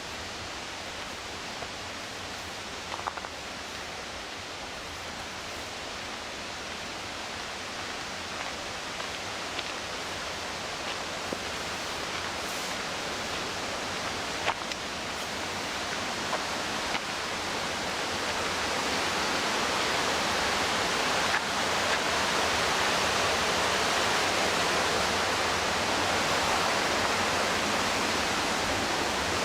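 Rushing whitewater of the McKenzie River, a steady roar that grows gradually louder, most of all over the second half, with a few faint ticks over it.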